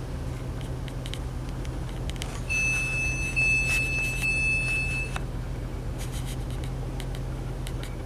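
Steady low hum inside a Class 185 diesel multiple unit. About two and a half seconds in, a high electronic warning tone sounds continuously for about two and a half seconds, then stops.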